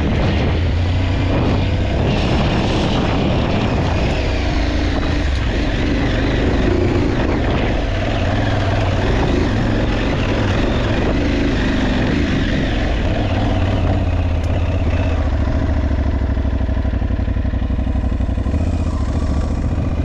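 Aprilia Tuareg 660 adventure motorcycle being ridden, its parallel-twin engine running continuously with a deep rumble and a pitch that rises and falls slightly as the throttle changes.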